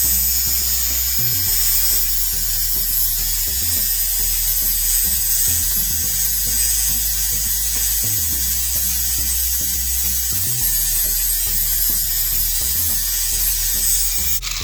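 Handheld electric sanding tool running steadily against the edge of a dull steel lawn mower blade, sharpening it: a high-pitched motor whine with a grinding hiss, cutting off abruptly near the end.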